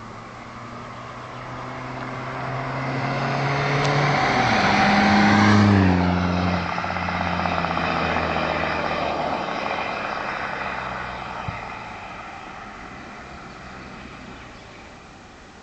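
SEAT Ibiza 1.9 TDI four-cylinder turbodiesel with a custom turbo-back exhaust accelerating past. It grows louder for about five seconds, drops in pitch as it passes, then fades away.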